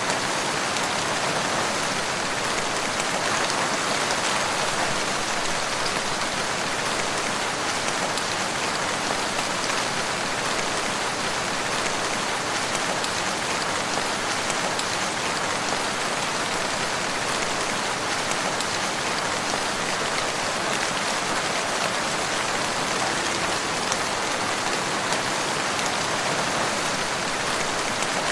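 Steady rain falling and pattering on a surface, an even hiss of drops that does not change.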